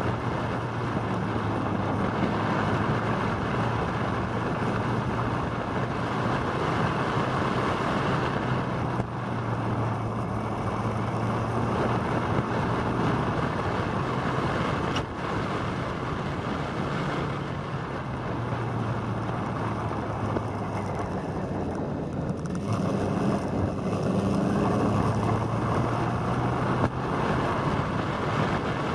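Motorcycle engine running on the move, heard under rushing wind on the microphone. The engine note eases off twice, about a third of the way in and again past two-thirds, then picks back up.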